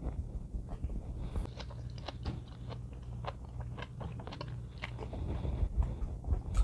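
Close-up chewing of crunchy, spicy seasoned vegetables, with many quick irregular crunches. There is a louder mouth noise near the end.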